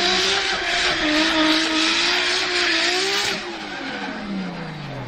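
Drift car engine held at high revs with tyres sliding and screeching, then about three seconds in the tyre noise stops and the engine note drops steadily and gets quieter.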